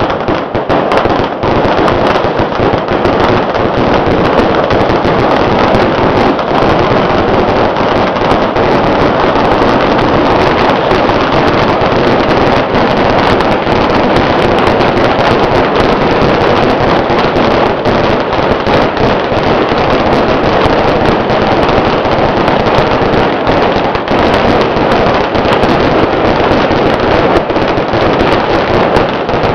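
Firecrackers going off in a dense, unbroken crackle of countless rapid bangs, holding steady and loud throughout.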